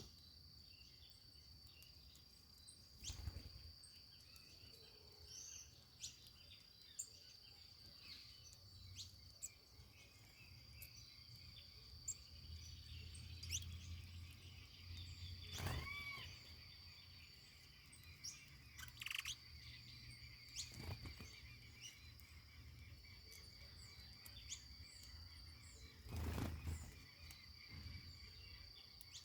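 Faint outdoor ambience: a steady high insect trill, cricket-like, with scattered short bird chirps and one louder bird call about 16 s in that slides down in pitch. A few soft thumps and a low rumble sit underneath.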